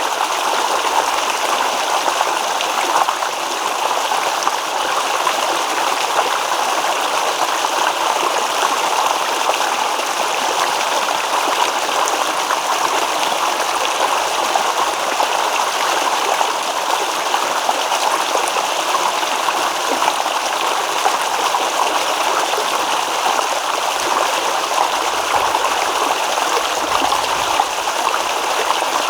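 Shallow stream babbling and trickling over stones, a steady rush of water.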